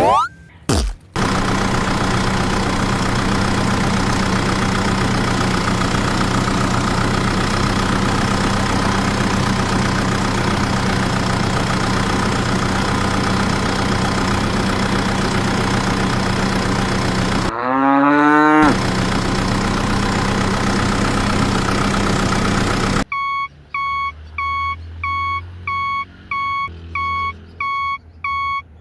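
A truck engine runs steadily for most of the stretch. About two-thirds of the way through it is broken by a cow's moo that wavers in pitch. Near the end the engine gives way to a regular beeping, about two beeps a second, like a truck's reversing alarm.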